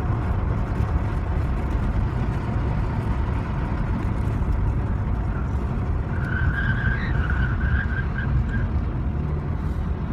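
Car engine and road noise, steady and loud, with a brief high-pitched squeal from about six to eight and a half seconds in.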